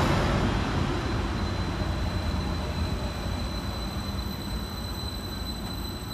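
Transport for Wales Class 231 Stadler FLIRT diesel multiple unit running into the platform and slowing to a stop. Its running noise fades steadily, with a thin, steady high whine over it.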